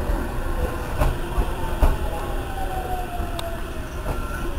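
Electric commuter train running along the platform: a low rumble with irregular clicks of wheels over rail joints, and a motor whine that falls slowly in pitch through the middle.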